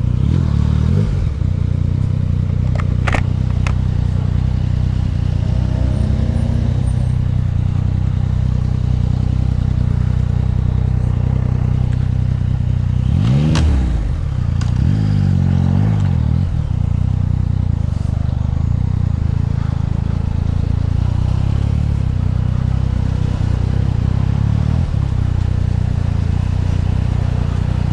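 Yamaha MT-09's three-cylinder engine running at low revs in slow traffic, with a few brief throttle blips, two of them close together about halfway through.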